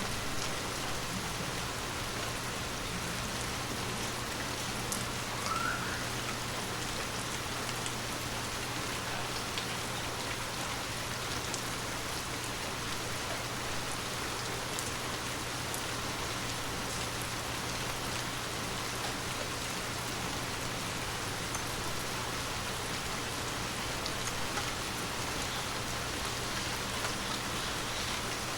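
Heavy rain falling steadily, an even hiss with scattered sharper drop hits, over a faint steady low hum.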